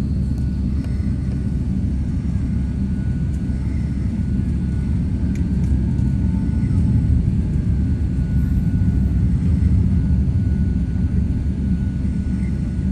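Jet airliner engines heard as a steady low rumble that swells slightly a few times.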